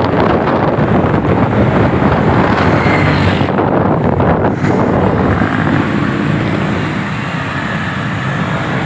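Wind rushing over the microphone and a motorcycle running on the road while riding, easing off a little about six seconds in.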